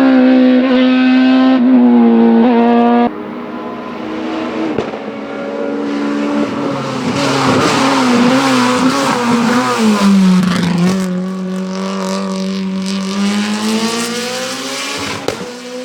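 Race car engines at high revs on a hillclimb, one car after another. A loud engine note with quick gear changes breaks off suddenly about three seconds in to a quieter car. That car's pitch falls, then climbs steadily as it accelerates away.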